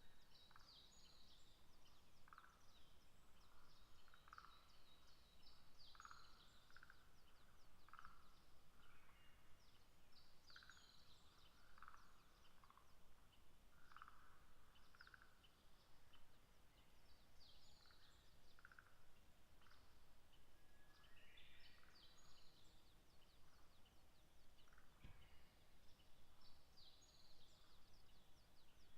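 Faint songbirds singing: quick high sweeping phrases, mixed with short repeated mid-pitched notes every second or two. There is a faint knock near the end.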